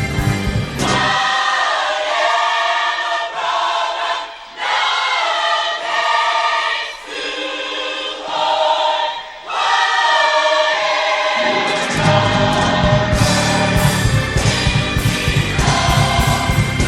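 Gospel choir singing a worship song; for most of the stretch the voices sing almost alone without bass or drums, and about twelve seconds in the full band with bass and drums comes back in.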